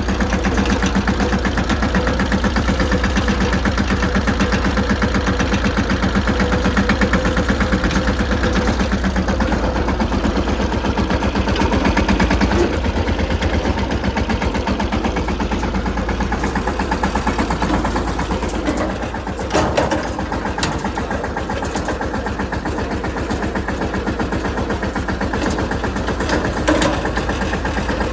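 Mahindra Yuvraj 215 tractor's single-cylinder diesel engine running with a steady, fast chugging beat. A little past halfway its level dips briefly amid a few sharp clacks, then it runs on slightly quieter.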